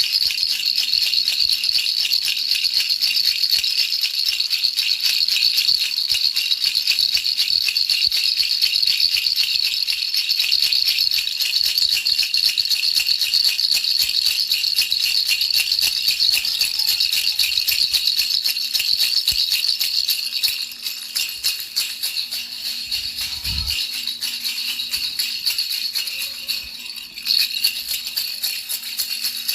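A baby rattle shaken without pause: a dense, high, hissing rattle of countless fine clicks. It grows a little softer about two-thirds of the way through, with a short low thump a little before that.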